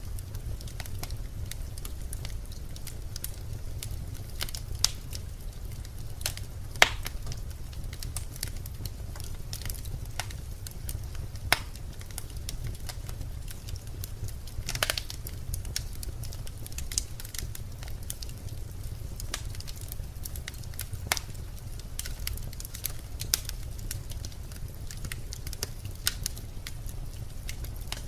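Birch logs burning in a fireplace: a steady low rumble of the fire with irregular sharp crackles and pops, the loudest pops about seven and fifteen seconds in.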